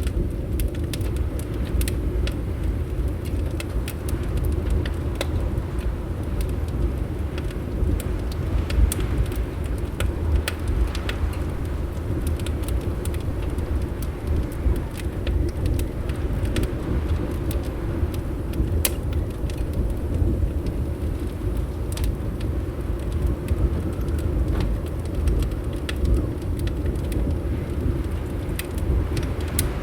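Fireplace crackling: irregular sharp pops and snaps scattered throughout, over a steady low rumble.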